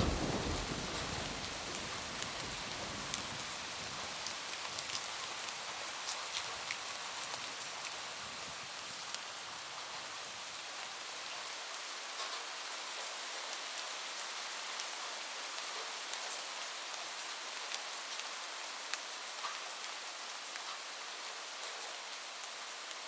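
Steady rain pattering on a roof, with scattered sharper drop ticks. A roll of thunder rumbles low at the start and dies away over the first few seconds.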